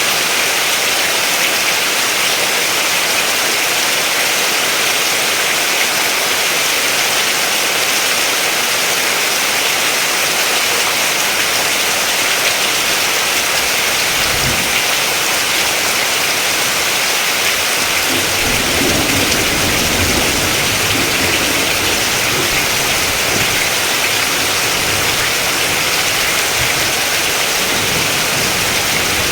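Steady rain falling, an even hiss. A brief low thump comes about halfway through, and a low rumble sits under the rain over the last third.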